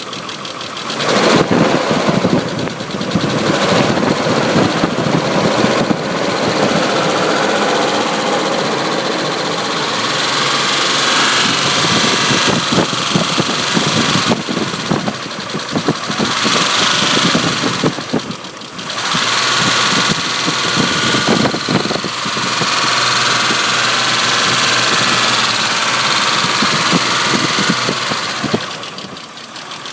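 1995 Isuzu Rodeo's 3.2-litre V6 engine revved from idle and held at raised revs, easing off briefly about two-thirds of the way through and dropping back to idle near the end. The owner hears an unexplained knocking noise from the engine.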